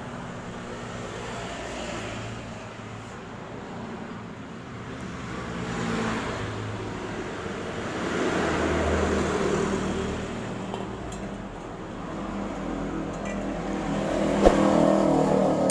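Toyota Soluna GLI's four-cylinder engine running through a JS Racing aftermarket exhaust, with only the end muffler swapped and the middle silencer left in place. It idles steadily with the revs raised a few times, swelling about six seconds in, again in the middle, and near the end.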